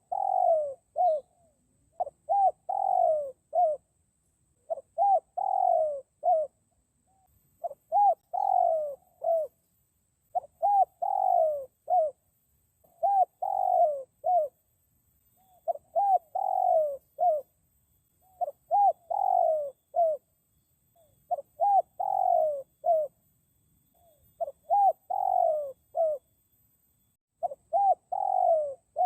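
A spotted dove (tekukur) cooing its territorial call over and over: a short phrase of three or four soft coos with one longer falling note in the middle, about every two and a half to three seconds. A faint steady high whine runs underneath.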